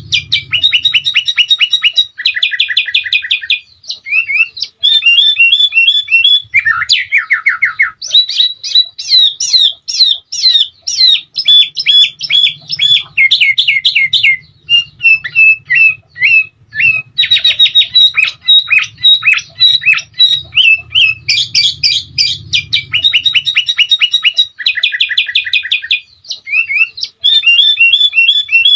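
Sooty-headed bulbul (kutilang) singing continuously in fast, chattering trills and repeated whistled notes, phrase after phrase with short breaks. A faint low hum lies underneath in parts.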